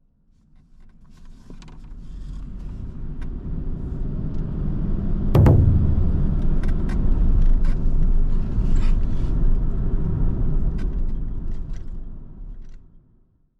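A low rumble that swells slowly to a peak about halfway through and then fades away, with scattered light clicks over it.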